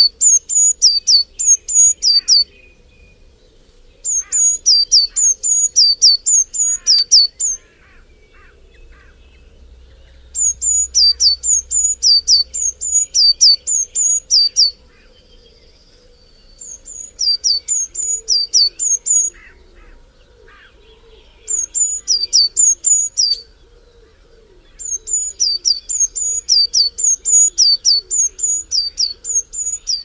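A songbird repeating sharp, high, downward-slurred notes, about three or four a second, in bouts of two to four seconds separated by short pauses, with fainter, lower bird chatter underneath.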